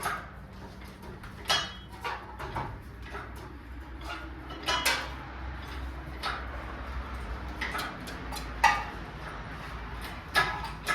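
Irregular metallic clanks and clinks, about a dozen spread out, some with a short ring, as a V8 engine hangs from a cherry picker and is worked free of the truck. The loudest clank comes near the end.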